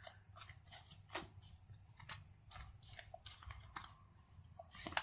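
Phone packaging being handled and opened by hand: a string of irregular crinkles, snips and small clicks.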